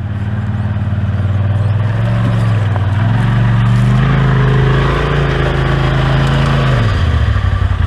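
Engine of a four-seat Polaris RZR side-by-side working hard on a steep hill climb, its pitch rising, dipping and rising again under throttle. It holds high for a few seconds, then drops back toward idle about seven seconds in.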